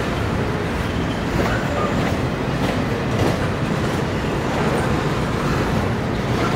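Double-stack intermodal freight train rolling past: a steady rumble of steel wheels on the rails, with occasional clacks over the rail joints.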